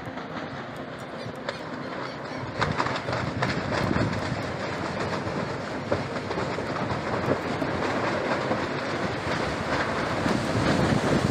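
Strong wind of a dust storm blowing hard against the microphone, with irregular rattling and clattering; it grows louder about two and a half seconds in.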